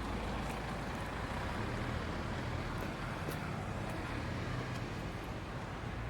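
Steady wind and road rumble on the microphone of a phone carried on a moving bicycle, with a few faint clicks.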